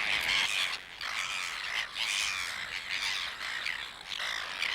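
A seabird colony calling: many birds at once in a dense, continuous chorus of overlapping calls.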